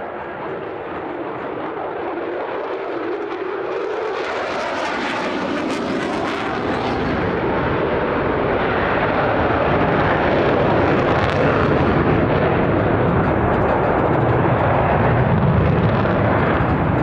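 F-16 fighter jet engine noise growing steadily louder as the jet closes in, with a sweeping whoosh about four to seven seconds in.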